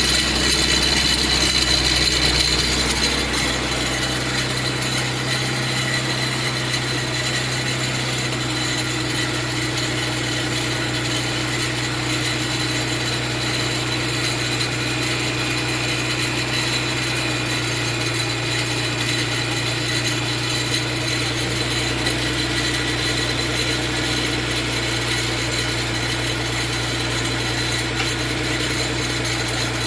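Mitsubishi FTO's 6A12 V6 engine idling steadily on its first start, with a nasty high whining, grinding note from a bearing on the belt drive, which the owner thinks is the tensioner bearing. The running gets a little quieter and settles about three seconds in.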